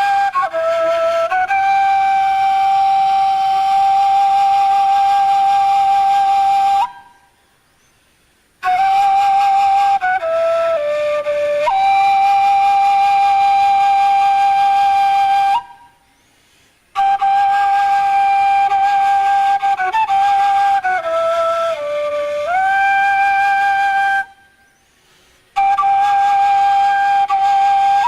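Armenian duduk played solo: a slow melody of long held notes with a slight vibrato, stepping down to lower notes and sliding back up, broken by three short pauses for breath.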